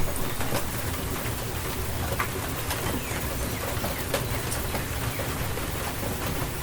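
Steady rain falling, an even hiss with many scattered individual drops striking surfaces.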